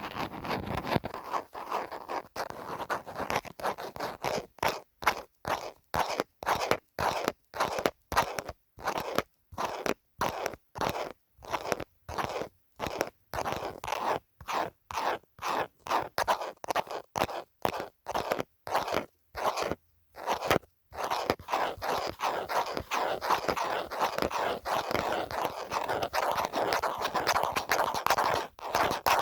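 Scratching on a phone case, first in separate strokes about two a second with short pauses between them, then turning to continuous fast scratching about two-thirds of the way in.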